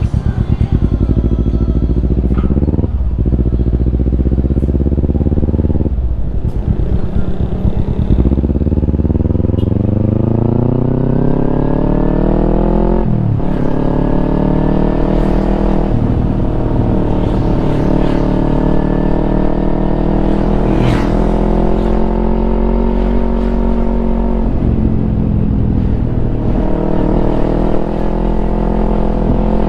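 Kawasaki Ninja 250 parallel-twin engine through a Yoshimura exhaust, pulling through the gears. The pitch climbs, then drops briefly at each of several shifts, holds fairly steady through the middle stretch, and climbs again near the end.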